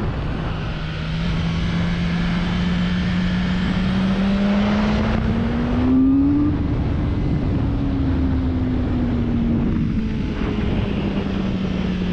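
BMW S1000R's inline-four engine pulling hard in one gear, its note rising steadily for about six seconds. It then eases off and falls gradually as the bike slows, with wind noise over the microphone throughout.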